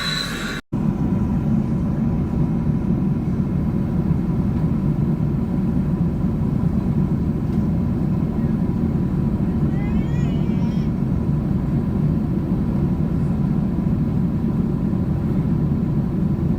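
Steady low rumble of a Boeing 777-200 airliner's jet engines and airflow heard from inside the cabin, with a faint steady tone running through it.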